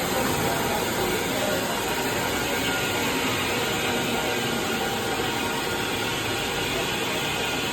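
Steady running noise of a steam-hauled train, a mix of hiss and mechanical rattle.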